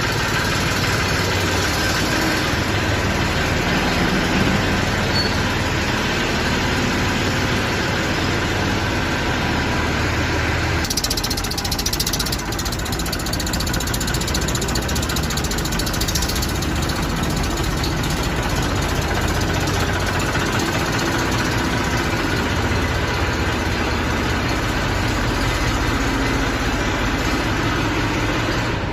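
Eicher tractor diesel engine running steadily, with an abrupt change in the sound about eleven seconds in.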